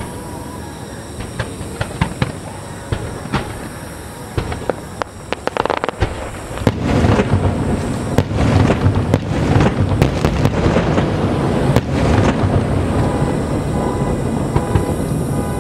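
Aerial fireworks: scattered crackling pops for the first six seconds, then from about seven seconds a dense, continuous barrage of bursts.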